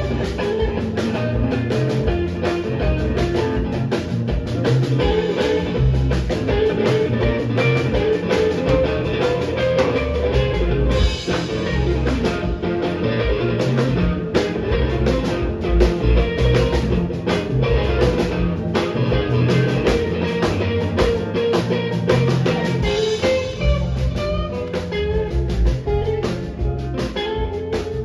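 Live rock band playing an instrumental passage, the guitar to the fore over bass and a steady drum kit beat.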